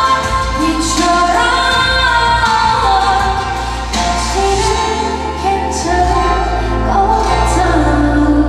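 Female singer singing a pop song with a full backing band track and steady bass, as heard at a live stage performance.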